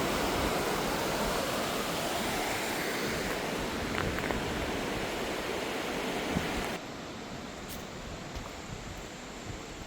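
Steady rushing of a swollen, flood-damaged river, which suddenly drops to a quieter level about seven seconds in.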